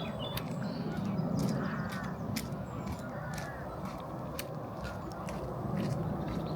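A few short, harsh bird calls over a low steady rumble, with scattered sharp clicks.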